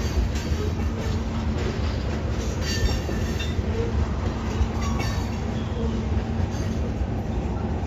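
Tank cars of a Union Pacific freight train rolling past: a steady rumble of steel wheels on rail.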